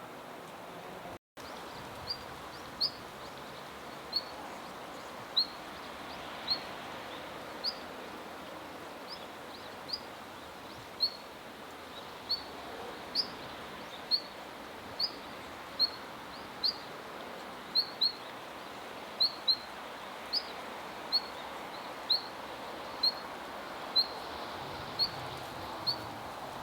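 Siberian long-tailed rosefinch calling: short, high single notes repeated about once a second, over a steady background hiss.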